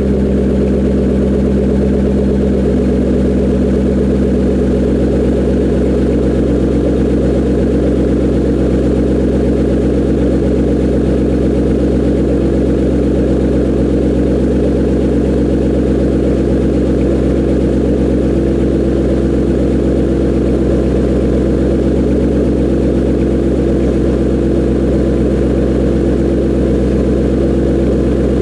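Shelby Mustang V8 idling steadily through Ford Racing GT500KR axle-back mufflers on stock manifolds and pipes, warming up after a cold start.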